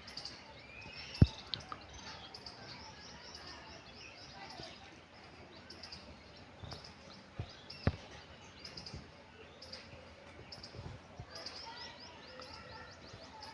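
Small birds chirping in the background, short high chirps repeating about once a second. A sharp knock about a second in is the loudest sound, with another a little past halfway.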